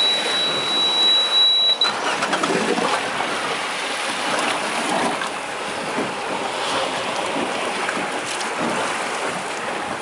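Sea and wind noise around a small boat on open water, a steady rushing wash. In the first two seconds it is overlaid by one steady high-pitched electronic beep.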